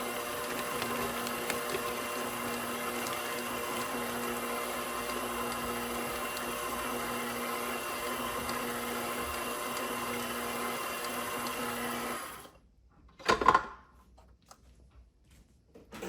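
KitchenAid Professional 6000 HD stand mixer running steadily, its DC motor driving the flat beater through brownie batter, then switching off about twelve seconds in. About a second later comes one short knock, louder than the mixer.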